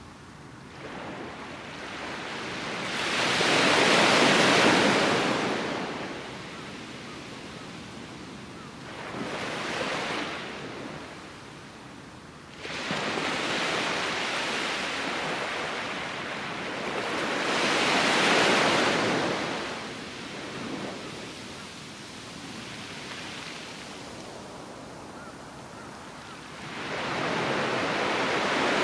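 Ocean surf breaking and washing up a sandy beach: the sound swells up and fades away again about every five to eight seconds, with a steady lower hiss of sea between the waves.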